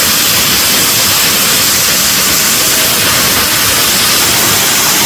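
Waterfall rushing: a loud, steady hiss of falling water and spray.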